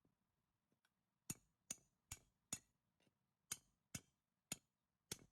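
Hammer tapping on metal in brake repair work: eight sharp strikes about two or three a second, four, a pause of about a second, then four more.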